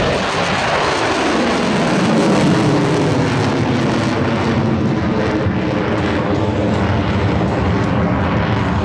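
Lockheed Martin F-22 Raptor jet flying past at an airshow: loud jet noise that sweeps down in pitch over the first couple of seconds as it goes by, then continues as a steady roar.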